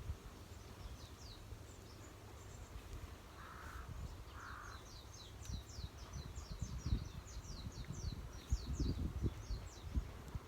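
Two crow caws about three and a half and four and a half seconds in, followed by a small bird's quick run of high, falling chirps through the second half. Wind rumbles on the microphone underneath, with a few gusts.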